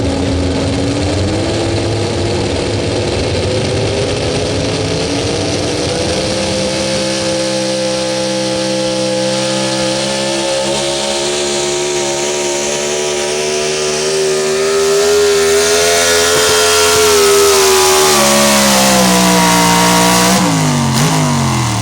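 Super Stock 4x4 pulling truck's engine at full throttle during a pull. Its pitch climbs over the first six seconds, holds high and grows louder, then falls away sharply near the end as the throttle is let off.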